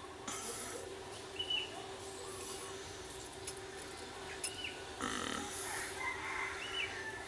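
A bird gives a short chirp that rises and falls, repeated every two to three seconds, over a faint steady hum. Two brief rustling noises stand out, one just after the start and a louder one about five seconds in.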